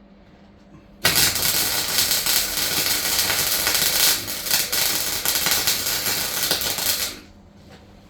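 Welding arc crackling on the van's floor panel in one continuous run of about six seconds, starting sharply and cutting off abruptly.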